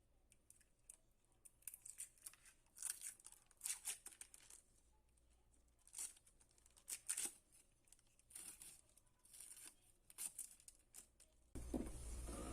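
Handling noise from bench work: irregular rustling, crinkling and small clicks in short bursts. About a second before the end a steady rushing noise with a low hum starts.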